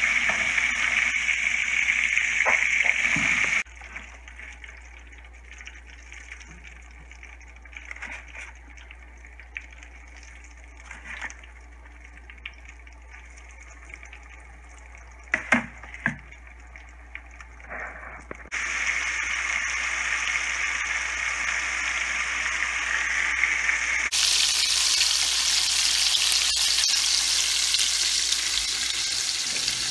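Breaded tomato slices shallow-frying in hot oil, a steady loud sizzle. About four seconds in it drops to a much quieter stretch with a few sharp clicks, and the sizzle returns loud some fifteen seconds later.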